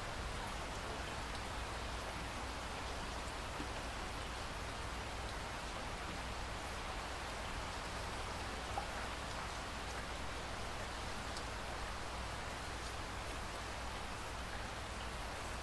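Steady rain falling, an even continuous hiss, with one small tap of a drop a little past halfway.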